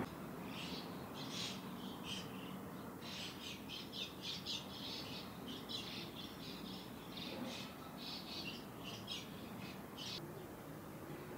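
Small birds chirping outside: a quick, irregular run of short high calls that stops about ten seconds in, over a faint low background rumble.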